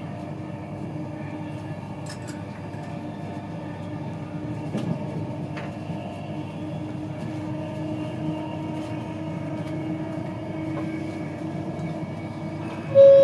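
Running noise inside an InterCity 225 Mark 4 passenger coach at speed: a steady rumble of wheels on rail with a steady low hum and a few faint clicks. A short loud tone sounds near the end.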